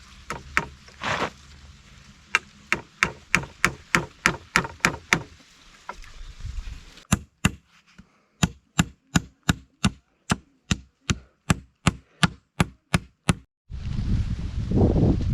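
Repeated chopping strikes into wood, about three a second, in two runs with a short pause between them. A loud burst of rustling noise follows near the end.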